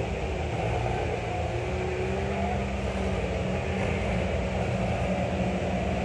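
Several Farmall tractor engines running steadily as the tractors manoeuvre in their dancing-tractor routine.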